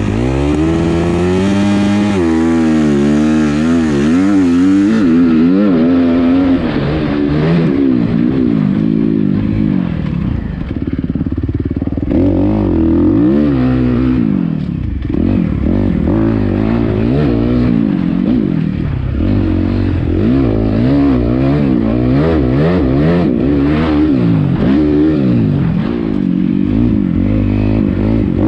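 2017 Suzuki RM-Z250 single-cylinder four-stroke motocross engine breathing through a full titanium aftermarket exhaust, being ridden hard. The engine pitch climbs and drops over and over as the throttle is opened and closed.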